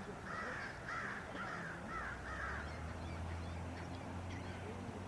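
A bird calling in a quick series of repeated harsh calls, about two a second, that stops about two and a half seconds in; a low steady hum sets in about two seconds in and carries on.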